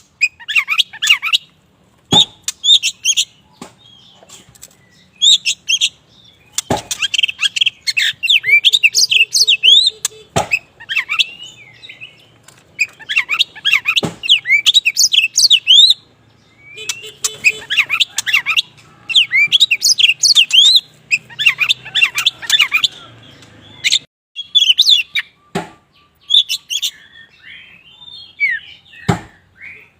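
Black-morph Oriental magpie-robin (kacer wulung) singing hard in bursts of rapid, varied whistles and chirps, each phrase a few seconds long with short pauses between. Sharp clicks sound now and then between phrases.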